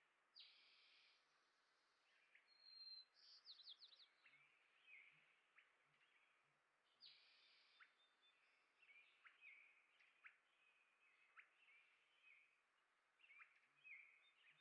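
Faint chirps and short sharp calls of small songbirds, scattered every second or so, with a couple of buzzy notes and a brief fast trill about three seconds in.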